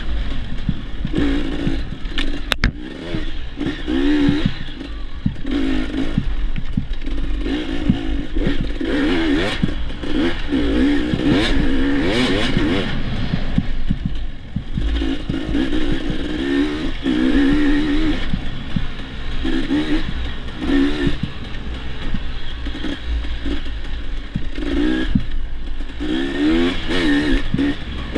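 Dirt bike engine being ridden hard, its pitch rising and falling again and again as the throttle is opened and shut, with scattered rattles and knocks and a steady low rumble underneath.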